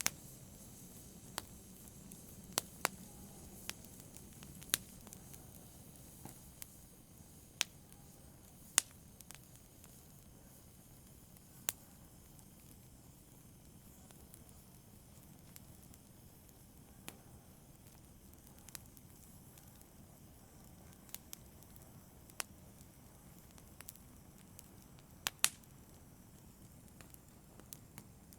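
Wood fire crackling in a fireplace: sharp pops at irregular intervals over a faint steady hiss. A few pops stand out louder, one about nine seconds in and a close pair near the end.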